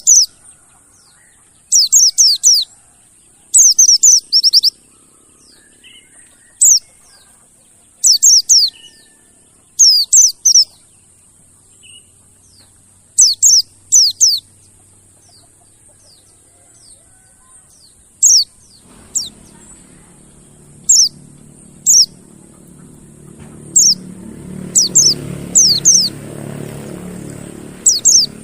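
Mountain white-eye calling: short, high chirps that slide down in pitch, given singly or in quick runs of two to four, every second or two. A low hum builds under the calls in the last third.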